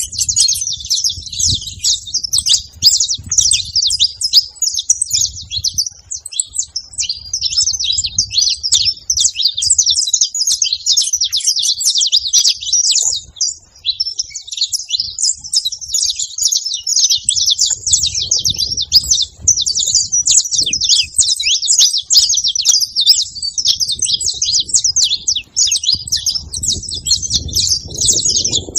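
Saffron finches (canários-da-terra) singing together: a dense, continuous stream of rapid high chirps and trills, several birds overlapping.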